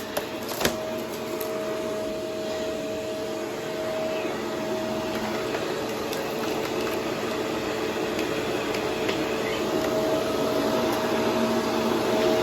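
Upright vacuum cleaner running steadily with its brushroll on, a hum with a few held tones, growing slightly louder over the stretch. One click comes shortly after the start.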